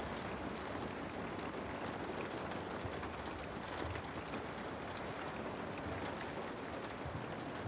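Steady rain ambience: an even hiss of rainfall with faint scattered drop ticks.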